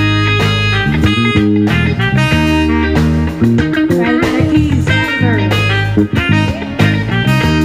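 Live band playing an instrumental break: electric guitar lead over bass guitar and drums, with no singing.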